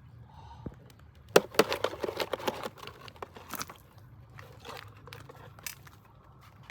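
A burst of crinkling, crunching crackles about a second and a half in, lasting about a second, followed by a few scattered single clicks.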